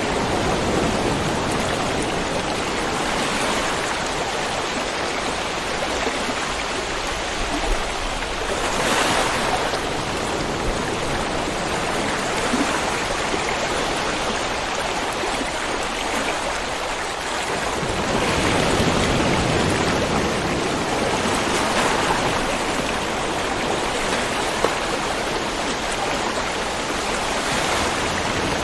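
River water flowing over stones: a steady rushing and burbling that swells and eases in slow surges.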